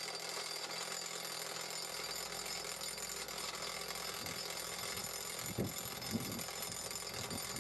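Atlas Copco Cobra Combi gas-powered rock drill running steadily, its two-stroke engine and impact mechanism hammering the drill steel into rock.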